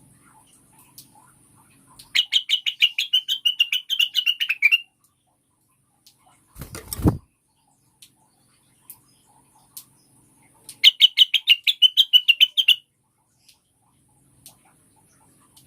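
Female cucak wilis (blue-winged leafbird) giving her call to draw a male: two fast trilled runs of sharp chips, each two to three seconds long. Between them comes one brief, loud rustling thump.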